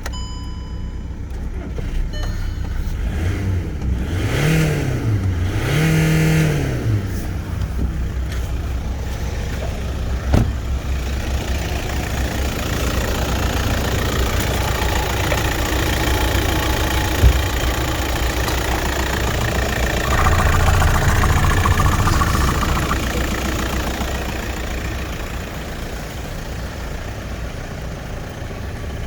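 VW Golf 5 2.0 SDI four-cylinder diesel engine running at idle. It is blipped twice, rising and falling, about four and six seconds in, then settles back to a steady idle. Revs rise slightly for a couple of seconds about two-thirds of the way through.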